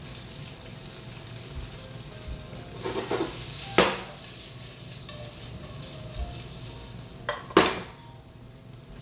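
Food frying in oil in a pan, sizzling steadily, with a utensil striking the pan in two short clusters, at about three and a half seconds and again at about seven and a half seconds in.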